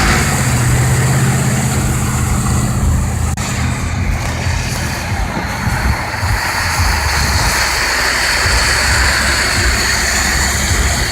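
Car driving: a steady engine hum and road noise.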